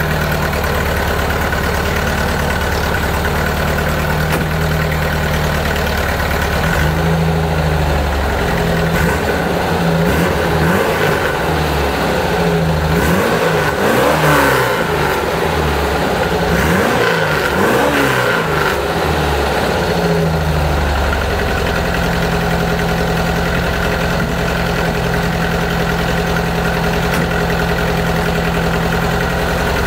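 Air-cooled fuel-injected 2056cc flat-four of a 1973 Porsche 914 2.0 with a Bursch exhaust, idling steadily, then revved in a series of blips from about seven seconds in until about twenty seconds, and settling back to a steady idle.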